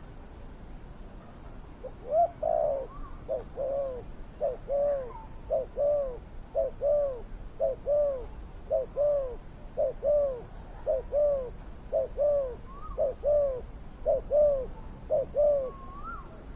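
Spotted dove cooing: a long, evenly paced run of about fourteen rounded coos, roughly one a second, starting about two seconds in.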